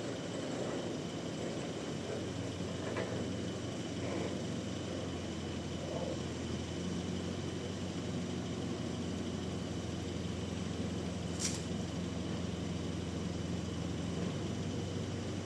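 An engine running steadily with a low hum, with one sharp click about eleven seconds in.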